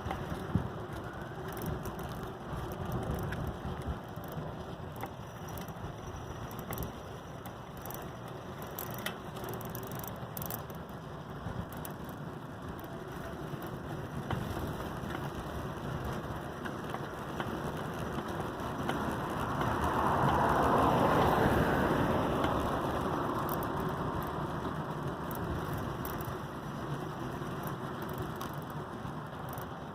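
Adult tricycle being ridden, its drivetrain ticking and clicking over a steady rolling noise. About two-thirds of the way through, a louder rushing noise swells up and fades away.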